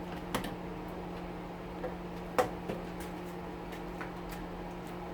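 A few short clicks and taps of parts being handled during the oven teardown, the loudest about halfway, over a steady hum from a stove's exhaust fan.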